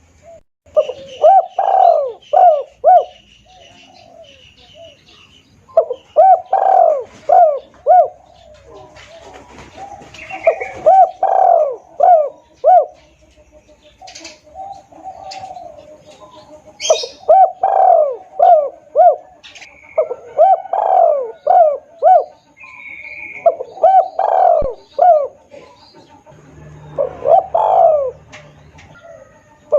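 Spotted dove cooing: loud phrases of several quick coos, repeated every few seconds, as a lure call to draw in other doves. Faint chirps of other small birds between the phrases.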